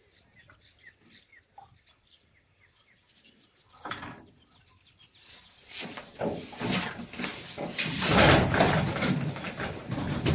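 Faint scattered chirps, then about five seconds in a loud rushing noise of a rainstorm builds up and surges unevenly, rain and wind hitting the microphone.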